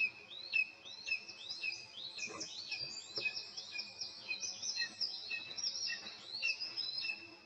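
Nestlings' begging calls: high chirps that rise then drop, repeated about twice a second, with more chirps overlapping from about two seconds in.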